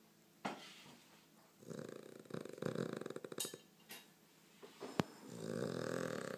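Cavalier King Charles Spaniel snoring: a short snore about half a second in, a long rattling snore of about two seconds, then another long snore starting near the end. A single sharp click about five seconds in is the loudest sound.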